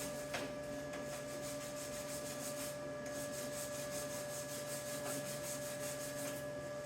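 MIG welder laying a bead: a steady crackling hiss, with a steady electrical hum underneath.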